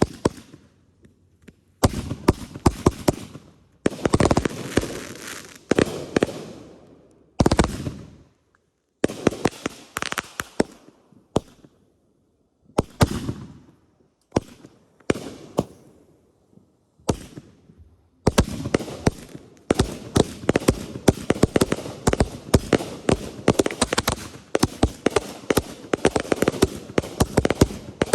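Consumer fireworks going off: spurts of rapid sharp bangs and crackling with short silent breaks between them, then from about 18 s in a dense, unbroken run of crackling reports.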